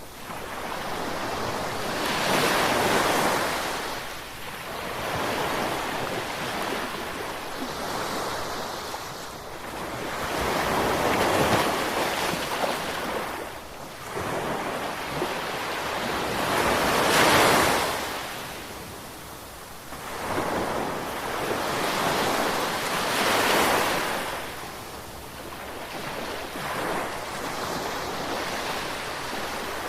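Ocean waves breaking and washing ashore in slow surges of hiss. Four big breakers come a few seconds apart, with smaller washes between them.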